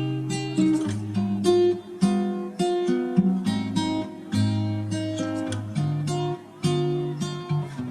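Background music: strummed acoustic guitar playing a rhythmic pattern of chords.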